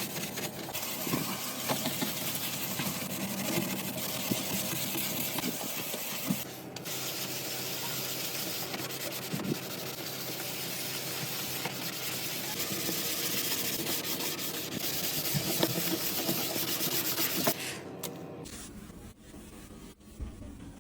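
Steady rubbing or scrubbing noise with scattered small clicks and knocks, dropping away sharply near the end.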